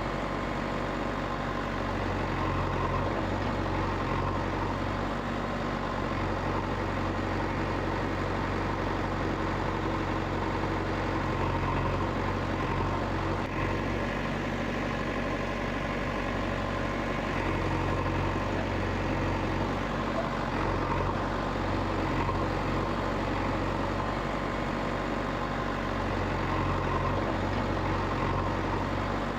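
A heavy vehicle engine running steadily at idle, with an unchanging low hum.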